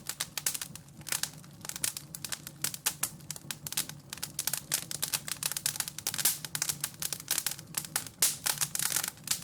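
Wood fire crackling in a fireplace: dense, irregular sharp snaps and pops, with a faint steady low hum underneath.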